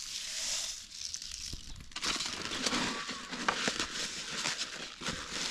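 Dry rice being scooped and measured out: a dense rustle of many small grain ticks that thickens about two seconds in.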